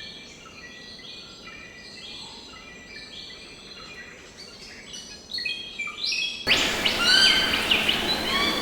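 Many birds chirping and calling in quick, repeated short notes. About three-quarters of the way through the sound cuts abruptly to a louder recording, with a steady hiss behind it and louder, sweeping calls.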